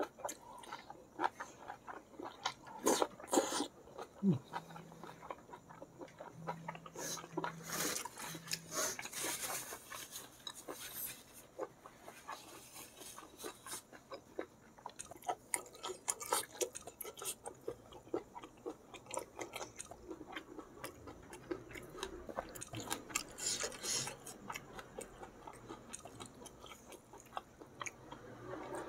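Close-miked chewing of spicy balado cuttlefish with rice: irregular mouth clicks and smacks as the food is eaten by hand, in denser clusters every few seconds.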